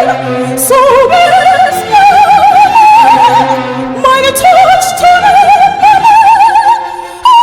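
A woman singing in an operatic style, holding long notes with a wide, even vibrato, over a steady low accompaniment.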